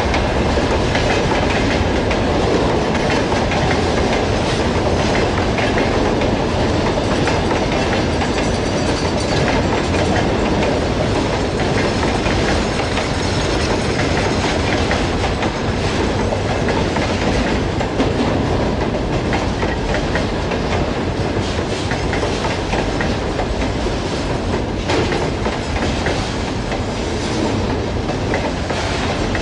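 Freight train rolling past, wheels clacking over rail joints in a steady rumble.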